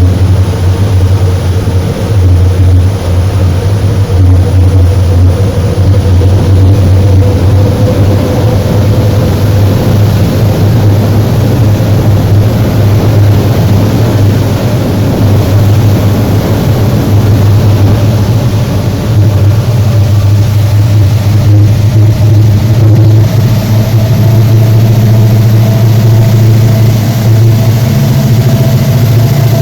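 WDP4D diesel locomotive's 16-cylinder two-stroke EMD 710 engine running under power with a loud, steady low humming. A fainter higher tone in the engine note climbs slightly in pitch in the last few seconds.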